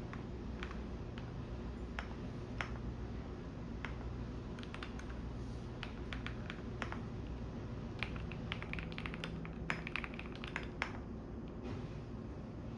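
Computer keyboard typing in scattered keystrokes, with a quicker run of keys about eight to eleven seconds in. Under it is the steady low hum of a washing machine running.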